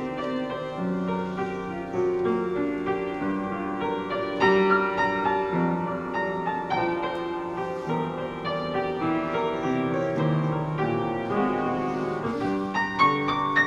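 Solo piano playing a musical interlude, notes and chords following one another without a break.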